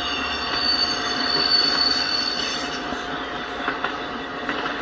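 Autorack freight cars rolling past on steel wheels, a steady rumble of wheels on rail with a high wheel squeal that swells and fades over the first couple of seconds.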